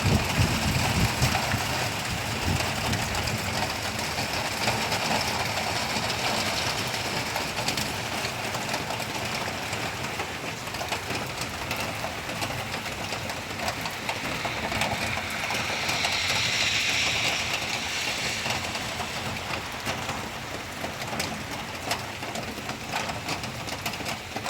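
Heavy rain pouring down with wind, a steady hiss that swells for a couple of seconds about two-thirds of the way through.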